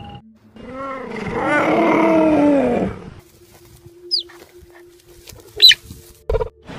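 Wild animal calls: a loud run of overlapping, wavering cries lasting about two seconds, followed by two brief high chirps and a sharp sound near the end.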